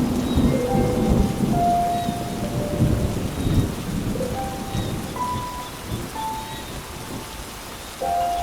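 Steady rain with a rumble of thunder that fades away over the first few seconds. Slow, soft instrumental notes play one after another over the rain.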